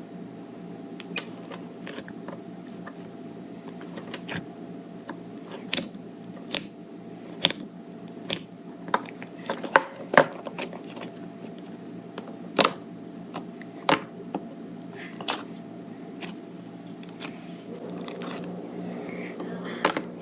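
Clay slime being kneaded and stretched by hand, giving sharp sticky pops and clicks at irregular intervals, about one a second, over a steady background hum.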